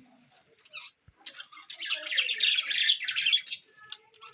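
Budgerigars chattering and squawking in a quick, dense jumble of high calls, starting about a second in and loudest in the middle.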